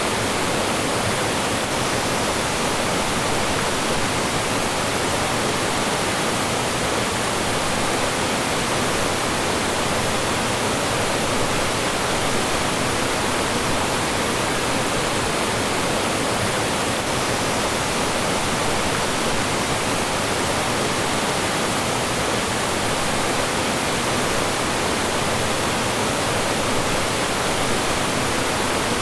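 Mountain stream rushing and splashing over rocks in small falls: a steady, unbroken rush of water.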